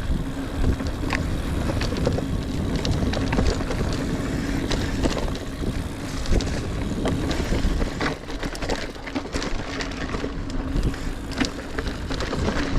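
Mountain bike ridden fast over rough singletrack: tyre rumble on dirt, wind on the microphone, and frequent sharp clicks and rattles from the bike over roots and rocks.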